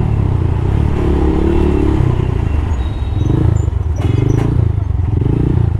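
TARO GP1 motorcycle engine and exhaust running under way, the exhaust note rising and falling a little with the throttle.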